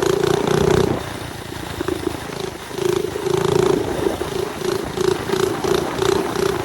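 Mini bike's small engine running hard under thumb throttle, easing off about a second in and picking back up near three seconds with a pulsing drone.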